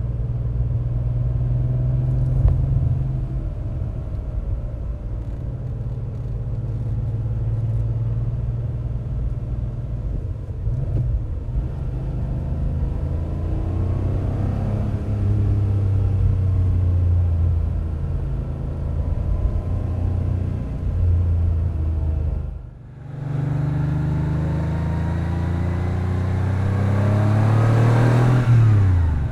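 Porsche 911 G-model's air-cooled flat-six running through a 92.501GT sport muffler while driving, with a deep exhaust rumble that rises and falls with the revs. After a brief break about two-thirds of the way in, the engine revs climb steadily, then drop sharply near the end.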